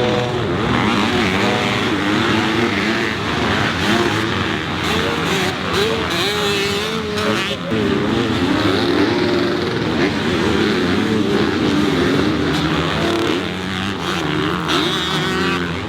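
Dirt bike engines racing on a motocross track, several bikes revving up and down, their pitches rising and falling as they accelerate and shift.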